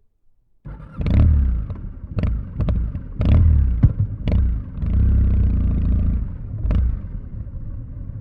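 Kawasaki W650 parallel-twin motorcycle with Nasert Trad mufflers: a low exhaust rumble that starts suddenly about a second in and swells and falls unevenly, with several sharp clacks along the way.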